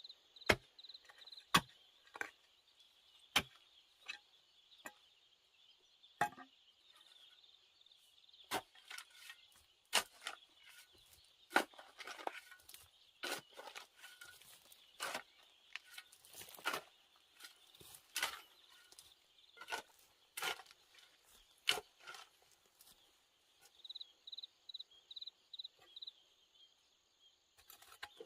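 Irregular sharp knocks and cracks, sometimes several a second, over a steady high insect drone; near the end an insect gives a short run of quick chirps.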